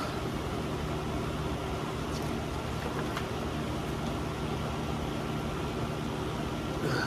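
Steady mechanical hum, like a fan or air conditioner running, with a few faint clicks and a short sharp breath near the end.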